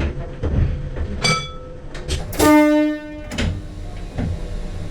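A Sydney Trains red set electric train's horn sounded from the cab in one short blast of under a second, the loudest sound here, about two and a half seconds in. A brief higher beep comes about a second before it, over a low cab rumble with scattered clicks.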